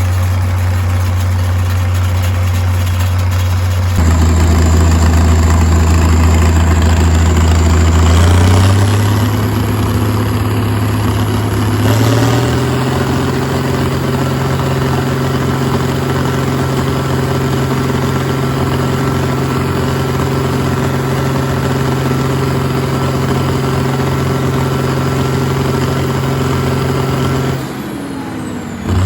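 Farm tractor engine running steadily under throttle. Its note steps up a few times in the first dozen seconds, holds, then drops away near the end.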